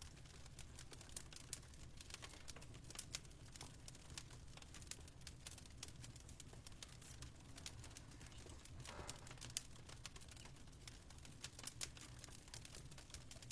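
Fireplace fire crackling faintly: irregular small pops and snaps over a steady low hum.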